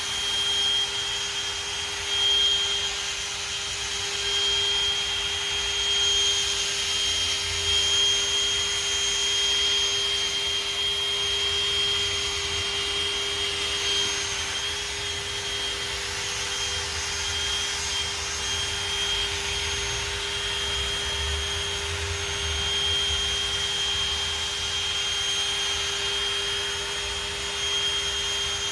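Electric drill running steadily with a foam polishing pad, buffing compound into a plastic headlight lens: a constant motor whine over a low, uneven rumble as the pad works against the lens.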